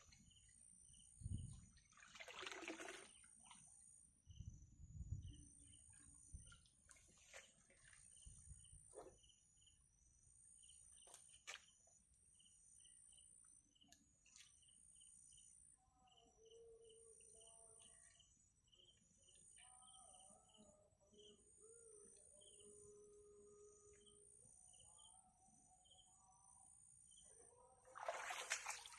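Faint rural outdoor ambience: a steady high insect drone with small chirps repeating about twice a second. A few splashes of water come near the start and again near the end, and faint distant calls sound in the middle.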